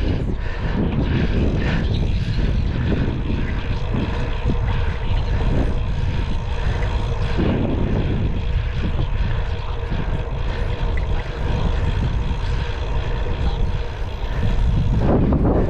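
Steady wind rumble on the microphone of a moving bicycle, with a steady hum running through it.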